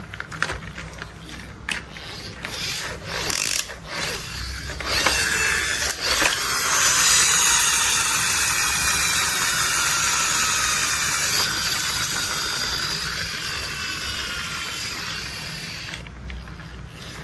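Plastic toy construction vehicle being handled: a string of sharp clicks, then a sustained mechanical whirring with falling pitch that slowly fades over about ten seconds.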